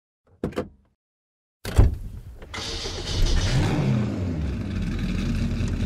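Title-sequence sound effects: a quick whoosh, then a sharp hit about a second and a half later, followed by a car engine revving up and down and settling into a steady run.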